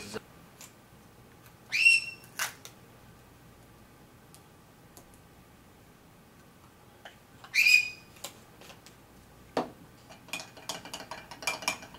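A Cape parrot gives two short, loud, high calls, about six seconds apart. Light clicks and taps follow, thickening near the end.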